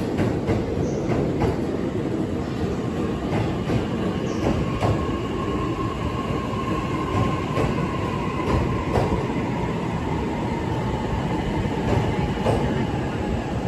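JR E657 series electric train running slowly along the platform: a steady rumble of wheels on rail, broken by occasional sharp clicks. From about five seconds in until near the end, a faint whine sags slightly in pitch.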